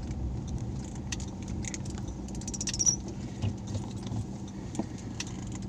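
Inside a car driving slowly: a low engine and road rumble with a steady hum, and scattered small rattles and clicks from the cabin. A short high squeak comes about three seconds in.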